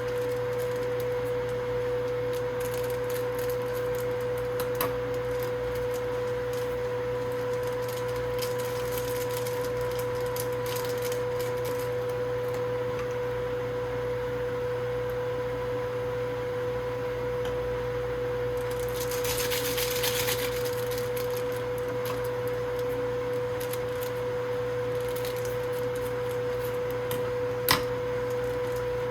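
A household appliance running with a steady mid-pitched electrical hum, with a brief hiss about two-thirds of the way through and a sharp click near the end.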